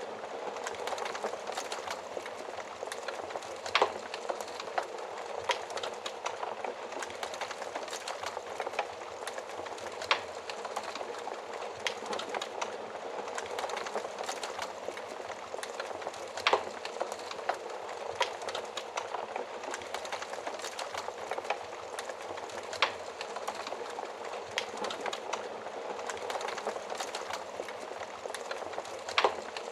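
Wood fire burning inside an oven: a steady hiss of flames with frequent small crackles and a few louder pops, spaced several seconds apart.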